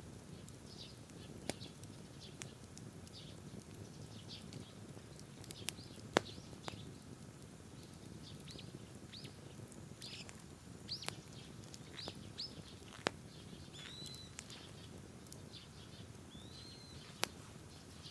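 Wood bonfire crackling with a steady low rush and a few sharp pops, while small birds call nearby in short, repeated, downward-sweeping chirps.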